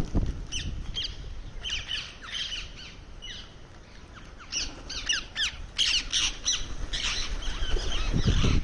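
Indian ringneck parrot giving short, sharp squawks, one after another in quick runs, thickest past the middle. A low rumble comes in near the end.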